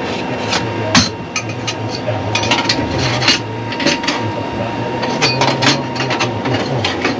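Metal pieces and tools clinking and knocking as they are handled on a workbench, a scatter of short irregular clatters, over the steady low hum of running machinery.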